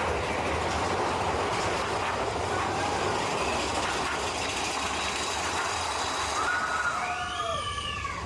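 Mine-train roller coaster cars running along the track with a steady rattling rumble. A brief, pitched wail rises and falls over it near the end.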